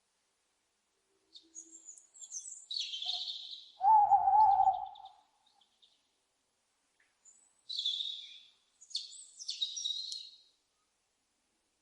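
Owls calling: raspy high-pitched screeches early on and again near the end, with one louder, lower hooting call about four seconds in.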